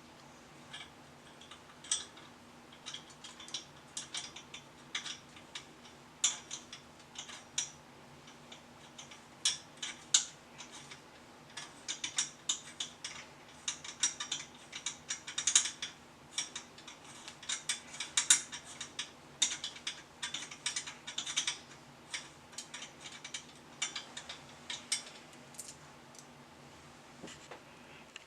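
Irregular clicking and clinking of hand tools and metal bike parts being worked, with quick runs of ratchet-like clicks, over a faint steady hum.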